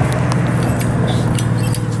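A steady, low engine hum, with light clicks and small rattles over it.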